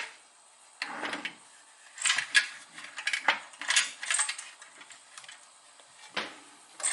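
Irregular light taps and metallic clinks, about half a dozen over several seconds with faint scraping between them: small tools worked against a butane lighter's filler valve, trying to push the valve out with a dowel.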